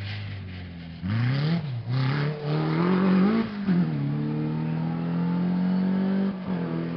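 Rally car engine accelerating hard through the gears: the pitch climbs and drops at each shift, then holds a steady high note with a short dip at one more shift near the end.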